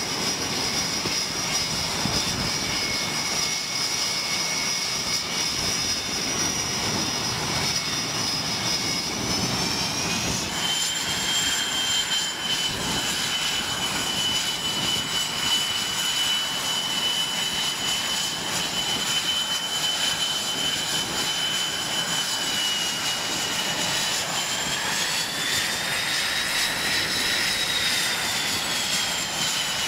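Twin jet engines of a US Navy F/A-18 Hornet running with a steady, high-pitched whine over a broad rush of noise. The whine steps up in pitch about a third of the way in, dips slightly later, then rises and falls again near the end as the throttle changes.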